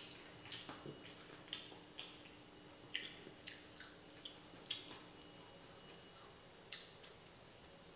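Faint, wet clicks and smacks of a person chewing rice and fried egg, coming irregularly about once or twice a second.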